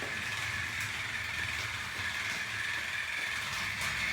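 Battery-powered toy train engines running, their small electric motors and gearboxes whirring steadily.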